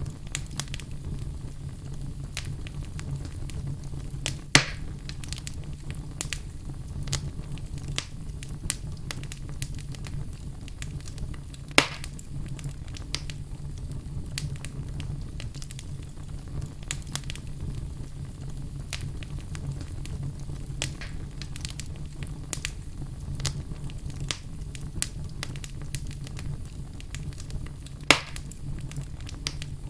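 Wood fire burning in a fireplace, crackling steadily over a low rumble, with three much louder sharp pops spread through.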